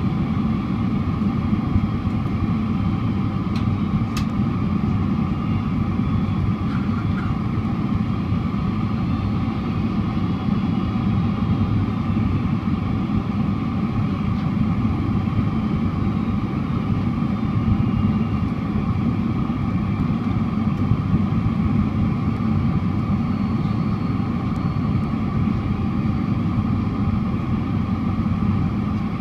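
Steady cabin noise inside a Boeing 767-400ER airliner: engine and airflow rumble with a few faint steady tones over it, and a brief click about four seconds in.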